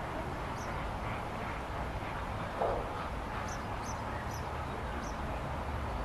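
Steady outdoor background noise with a handful of short, high bird chirps scattered through it, and one brief muffled sound a little before halfway.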